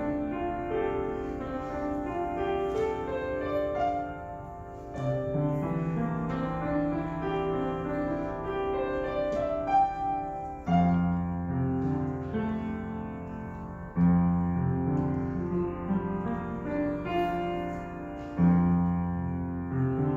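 Solo piano playing a flowing melody over broken chords. In the second half, deep bass chords are struck about every three to four seconds and left to ring under the right-hand notes.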